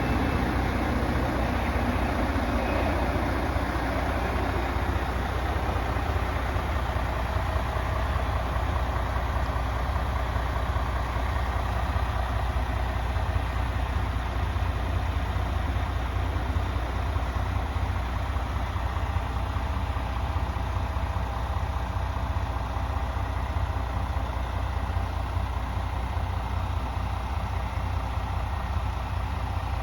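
Heavy diesel truck engine of a MAN TGS 28.430 tipper running steadily at idle, a constant deep hum.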